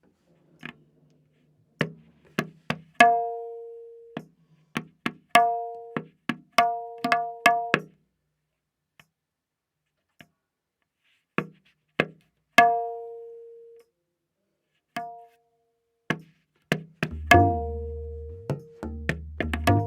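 Tabla playing a slow vilambit ektaal theka, the dayan tuned to A# and ringing on its open strokes. The strokes are spaced out, with a long sparse gap partway through, and deep bayan bass strokes join near the end.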